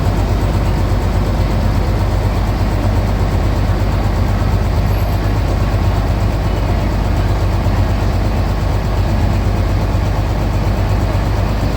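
Scania BF76 bus's diesel engine running steadily with a deep, even drone.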